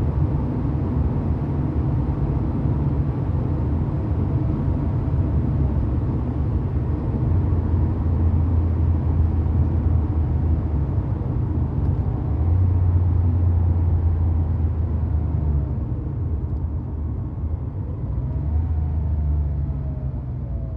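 1990 Porsche 911's air-cooled flat-six running steadily with a deep rumble that swells louder in a few stretches, and a slight rise and fall in pitch near the end.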